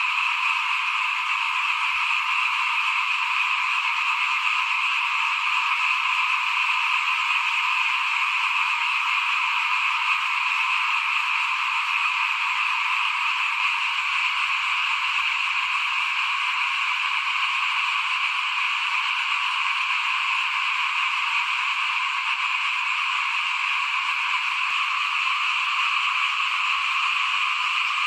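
A dense chorus of many small frogs calling together, a steady, unbroken wall of calls.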